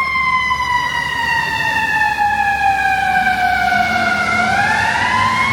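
FDNY fire truck siren wailing, its pitch falling slowly for about four seconds and then climbing again near the end, over the low rumble of traffic.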